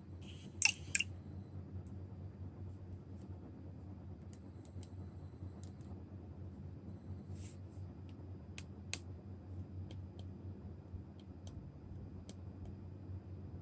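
Two sharp clicks close together about a second in, then scattered light clicks and ticks, all over a steady low hum. These are the small handling noises of tools and parts during phone screen repair work.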